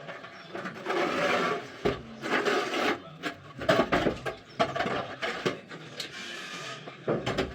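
Timber being worked by hand: wood scraping and rubbing in several longer strokes, with scattered knocks and clicks between them.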